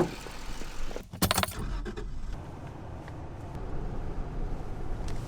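Steady low rumble of a vehicle, with a short clatter of sharp strokes about a second in.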